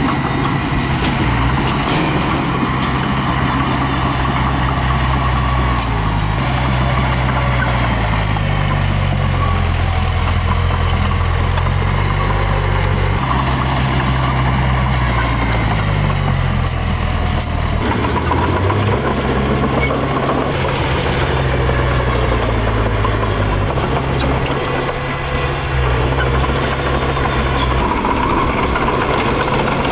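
Heavy diesel engine of a working small bulldozer running steadily, its pitch stepping up and down repeatedly as the load and revs change.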